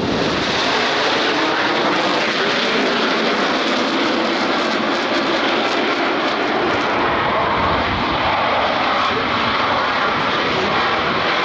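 Blue Angels F/A-18 Super Hornet jet engines, a loud, steady roar of aircraft in flight that starts abruptly and holds even throughout.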